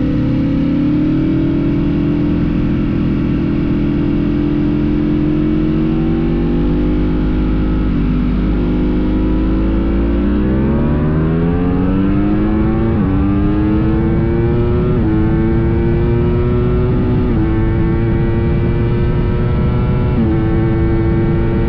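Sportbike engines accelerating hard in a roll race. The pitch climbs slowly at first, then from about halfway rises quickly and drops back at each upshift, roughly every two to three seconds.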